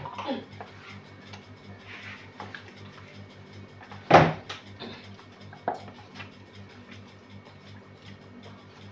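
Kitchen handling noise: one sharp knock of cookware or a utensil about four seconds in, followed by a few lighter clicks, over a steady low hum.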